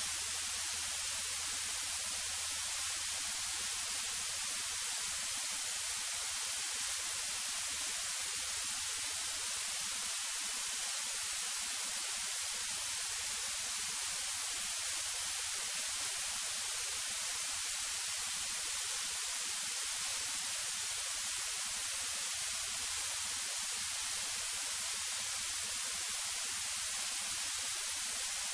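Steady hiss of a light aircraft's intercom audio feed, with a faint low engine hum under it during the first few seconds.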